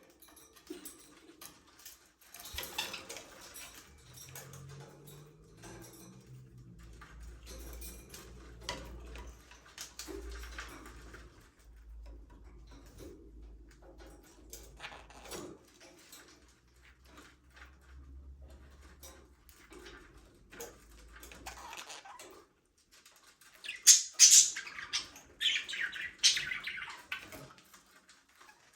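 Budgerigars chirping and chattering, faint with scattered scratchy clicks for most of the time, then a loud burst of high chirps near the end.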